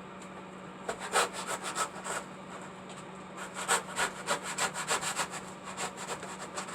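A blade sawing back and forth by hand, cutting into the waterfall piece: two runs of quick scraping strokes, about four a second, with a short pause between them.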